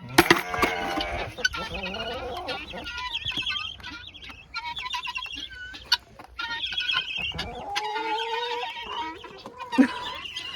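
Backyard chickens clucking and calling, several birds at once, with a loud call just after the start and a longer drawn-out call in the second half.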